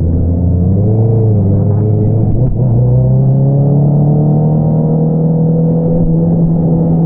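2022 Honda CBR650R's inline-four engine running through an Akrapovič single-outlet exhaust, heard from on the bike. The pitch wavers up and down about a second in, breaks briefly at about two and a half seconds, then climbs slowly and steadily as the bike pulls.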